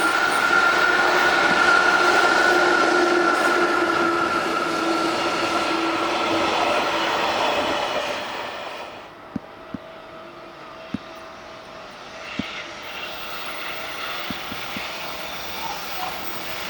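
Train passing close by with its wheels squealing in steady tones. It fades away about eight or nine seconds in, leaving quieter background noise with a few sharp clicks.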